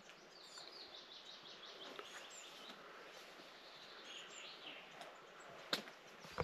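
Birds chirping and twittering faintly, with a couple of sharp clicks near the end.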